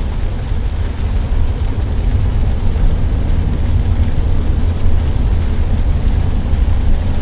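Steady low rumble of a moving vehicle: road and wind noise, heavy in the bass, with no distinct events.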